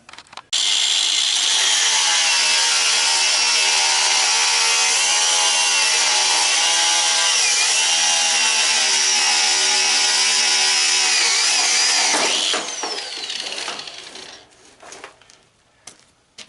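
Angle grinder starting up and running for about twelve seconds, cutting through the tanning bed's lid shocks, its whine dipping now and then as it bites into the metal. It then spins down with a falling whine, and a few light clanks follow.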